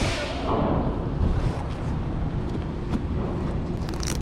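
Wind rushing over the microphone, a steady low rumbling noise with no clear tone.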